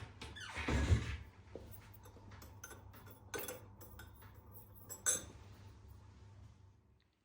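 Dishes and cutlery being handled: a rustling swish about a second in, then a few light clinks and knocks, over a low steady hum that cuts off near the end.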